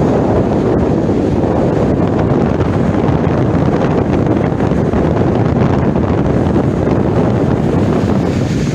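Strong wind buffeting the microphone, a loud steady low rumble, with lake waves breaking against the shore underneath.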